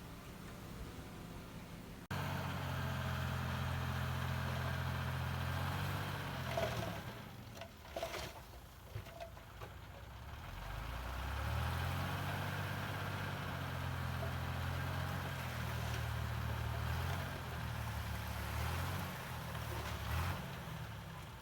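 Heavy diesel engine of earthmoving machinery running and working, its pitch easing down about halfway through and rising again, with a few sharp metallic clanks in the middle. It jumps suddenly louder about two seconds in.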